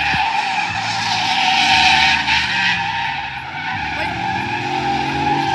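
Tyres squealing in a continuous drifting skid, with an engine revving up and down underneath.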